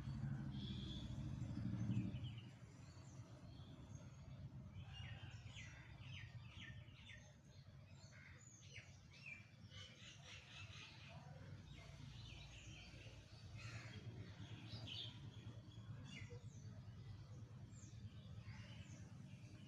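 Small birds chirping and twittering faintly, in many quick short series. A louder low hum underlies the first two seconds, then stops.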